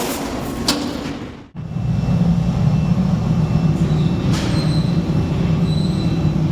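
Factory machinery running with a steady low hum and a few sharp clicks. It breaks off abruptly about a second and a half in and comes back louder.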